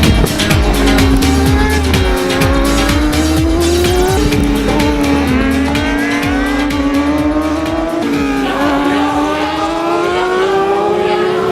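Superbike racing motorcycle engine pulling hard, its pitch climbing steadily and dropping sharply at upshifts about four seconds in and again about eight seconds in. Background music with a steady beat runs underneath until about eight seconds in.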